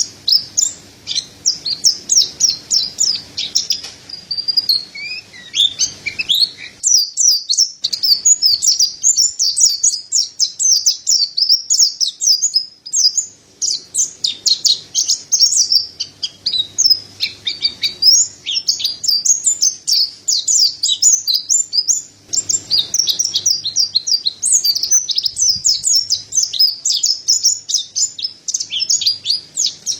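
Mountain white-eye singing: a dense, fast string of high chirps and trills, almost nonstop, with a brief break about seven seconds in.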